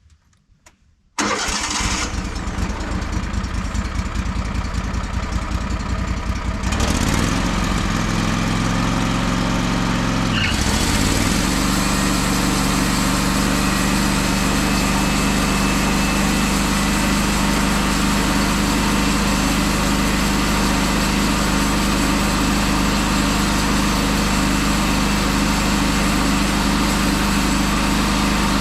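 Wood-Mizer LT15 Wide sawmill's engine starting about a second in and running, its sound changing twice in the first ten seconds before settling into a steady run.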